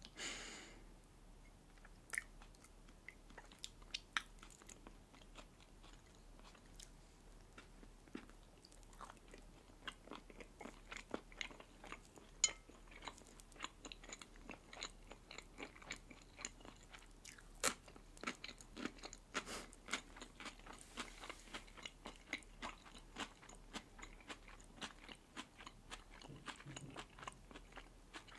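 Close-miked eating sounds: soft crisp crunching and chewing of fresh cucumber slices and a red-caviar sandwich, with many small wet mouth clicks, growing busier about halfway through.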